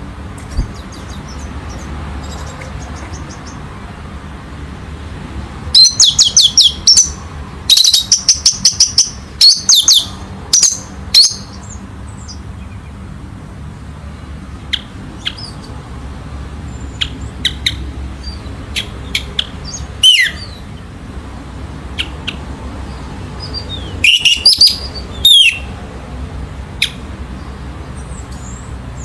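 Orange-headed thrush singing: two rapid runs of loud, high notes a few seconds in, scattered single whistles, and another loud phrase near the end. A steady low hum runs underneath.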